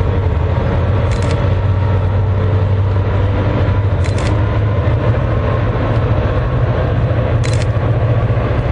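Diesel locomotive engine running with a steady low rumble. Three short, high-pitched clicks sound about three seconds apart.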